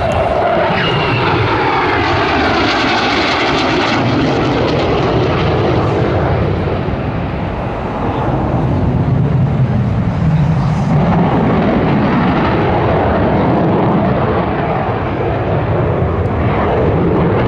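Display aircraft flying past with loud, steady engine noise. Its pitch sweeps down in the first few seconds, and a deeper swell of engine sound builds again about halfway through.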